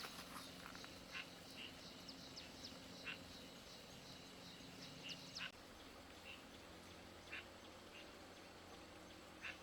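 Faint outdoor ambience with scattered short, high animal calls, several a second early on and sparser later. A low steady hum underneath cuts off about five and a half seconds in.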